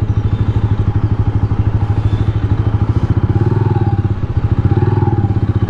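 Rusi Classic 250 motorcycle engine running on the move, a steady rapid exhaust pulse whose pitch lifts slightly a couple of times as the throttle opens.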